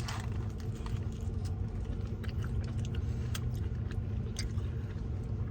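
Close-up chewing and biting of food, with small wet clicks and crunches, over the steady low hum of a car cabin.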